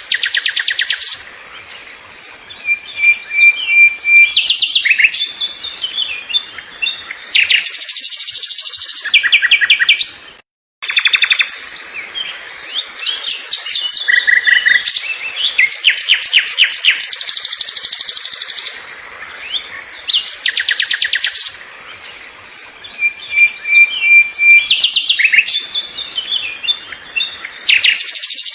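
Songbirds chirping and singing, with rapid high-pitched trills repeating again and again. The sound cuts out completely for a moment about ten seconds in.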